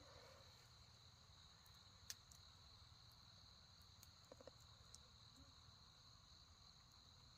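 Faint, steady high chirring of insects, with a few soft clicks about two seconds in and again around four to five seconds.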